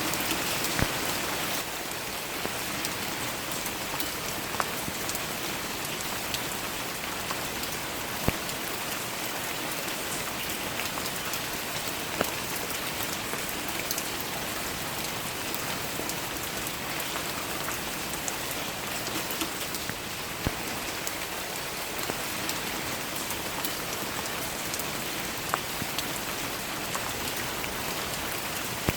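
Steady rain falling in an even hiss, with a few louder single drops ticking now and then.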